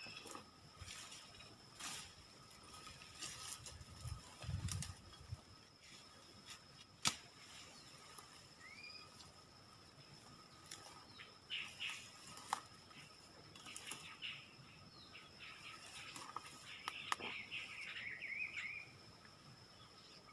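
Forest ambience: a steady high insect drone, short rising bird chirps with a busier spell of chirping near the end, and scattered sharp clicks and rustles with one dull thud.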